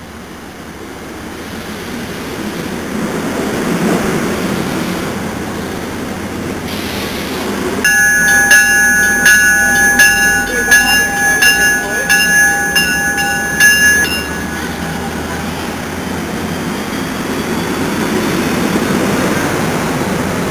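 NJ Transit commuter train arriving and passing along the platform: the rumble of the approaching cars builds, then the train's bell rings about twice a second for some six seconds in the middle, and the cars keep rolling by afterwards.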